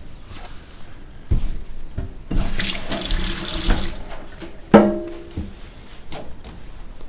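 Water running briefly at a kitchen sink, then a sharp clink of a cup or other kitchenware that rings for a moment, with a few lighter knocks of dishes being handled.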